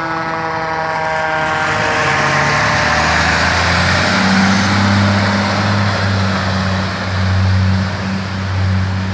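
A fire truck's siren winding down and fading in the first couple of seconds, then the heavy truck's diesel engine and tyre noise swelling loud as it passes close by.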